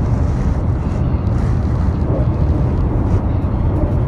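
Steady low rumble of a high-speed train running at speed, heard from inside the passenger cabin.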